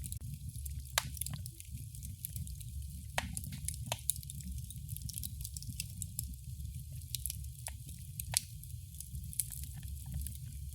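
Wood fire crackling in a fireplace: a steady low rumble of burning with a constant scatter of small crackles and a few sharper pops.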